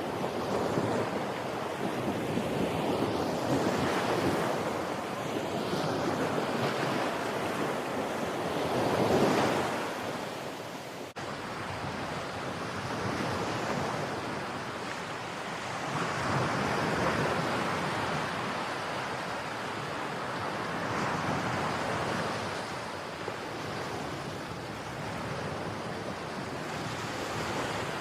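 Ocean surf: waves rolling in and washing back, swelling and fading every few seconds, with wind. The biggest swell comes about nine seconds in.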